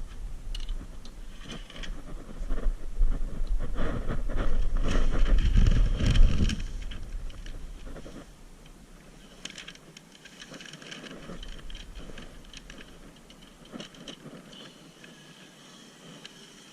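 Workshop handling noises: irregular clicks and knocks, over a low rumble that fades out after about seven seconds.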